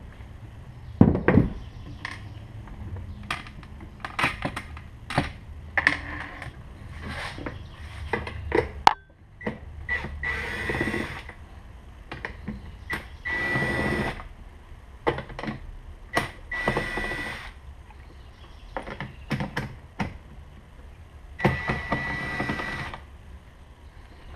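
Clicks and knocks of the trolling motor's plastic head unit and tools being handled, with four short rushing bursts of about a second each.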